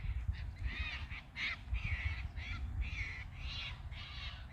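Birds calling in a rapid series of short calls, about three a second, over a low rumble.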